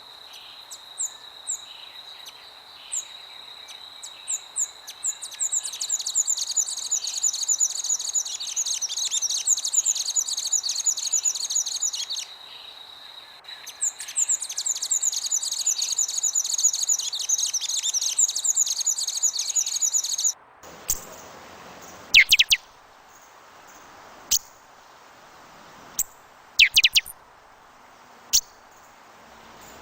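Birds chirping and calling over a soft, steady hiss of ambience, with a steady high whine and a dense, fast high trill in two long stretches. About two-thirds of the way through the sound cuts off suddenly to a quieter bed with scattered single sharp, falling chirps.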